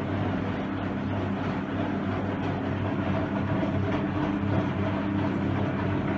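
Hoover Electra 535 front-loading washing machine running near the end of its wash: a steady motor hum with a rough churning noise from the wet load, even in level throughout.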